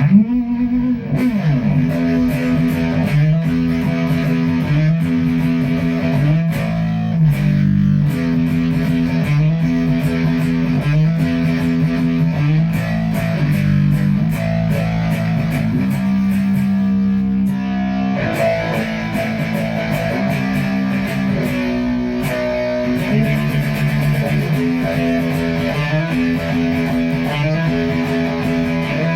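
Electric guitar played through a Mythos Positron fuzz pedal, repeating a low riff of held notes about every two seconds. A slide opens it, and one longer held note comes about halfway through.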